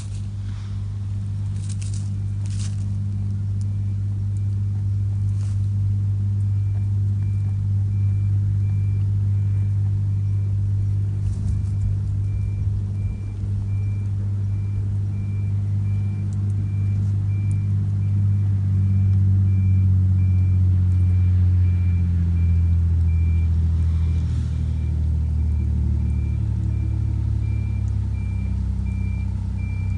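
Truck engine running, growing louder over the first several seconds and dropping in pitch a little past two-thirds of the way through. A reversing alarm beeps at a high pitch at an even pace. A few sharp clicks come near the start.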